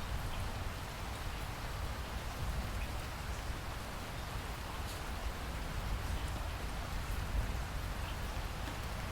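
Steady rain: an even hiss of falling rain with a low rumble beneath and a few faint drop ticks.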